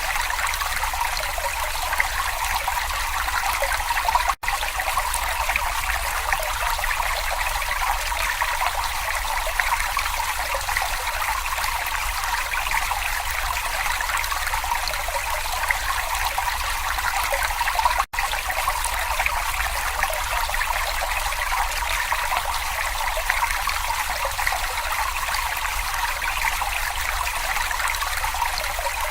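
Babbling brook: water trickling and splashing steadily, with two split-second gaps in the sound, about four seconds in and about eighteen seconds in.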